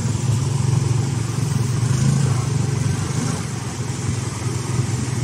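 Motor vehicle engine running in street traffic, a steady low drone that picks up just after the start and eases a little in the second half, over the general noise of traffic.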